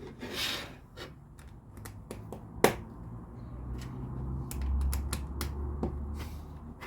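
LEGO pieces being pressed and clicked into place: a scattered series of sharp plastic clicks, the loudest about two and a half seconds in, with a quick run of clicks around five seconds, over a low hum.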